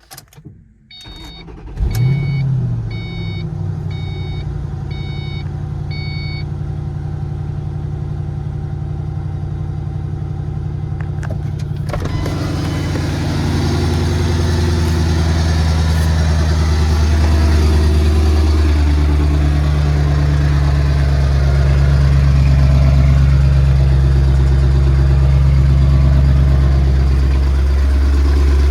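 Cold start of a 2005 Saleen-powered Mustang's V8: the starter cranks briefly and the engine catches about two seconds in, then settles into a steady cold idle. A dashboard chime beeps six times over the first few seconds, and about twelve seconds in the engine sound grows louder and fuller.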